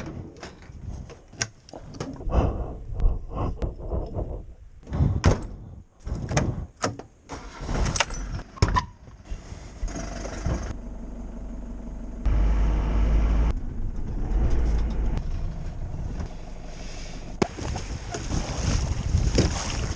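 Knocks and clatter, then from about halfway a vehicle running with a steady low rumble.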